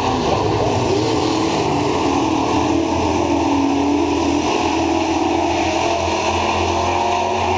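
Several super truck race engines running at speed around a dirt oval, their pitch rising and falling as they go through the turns and pass.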